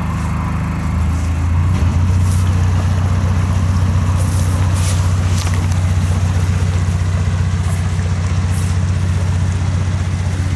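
Narrowboat's inboard diesel engine chugging steadily as the boat passes close by, getting louder about one and a half seconds in and then holding steady.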